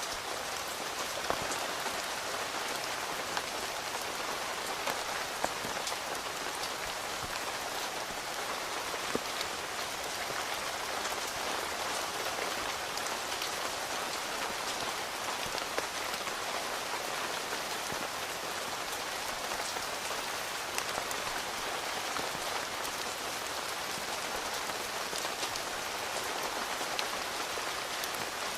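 Steady rain falling on a tent's fabric roof, with scattered sharper drops standing out here and there.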